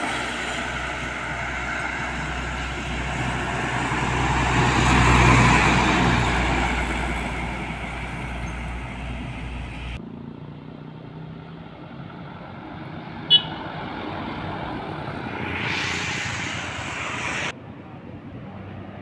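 Heavy trucks passing on a road, with diesel engine and tyre noise swelling as one vehicle goes by about five seconds in and then fading. The sound changes abruptly twice, and a short sharp sound cuts through just after the middle.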